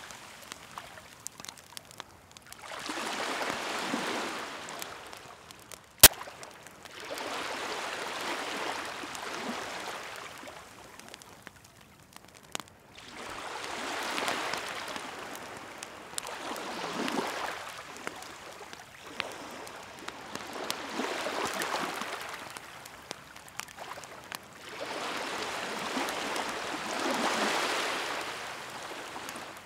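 Sea waves washing onto the shore in slow surges a few seconds apart, with the scattered crackle of a wood fire. There is one sharp, loud pop about six seconds in.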